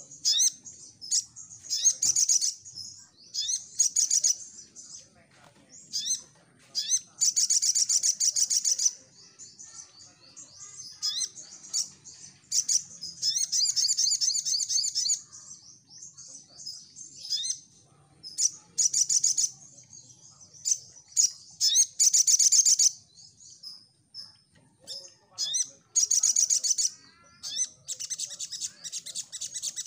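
A sogon (sogok ontong, little spiderhunter) singing: repeated high-pitched, rapid trilled bursts, some short and some held for one to two seconds, with brief gaps between them.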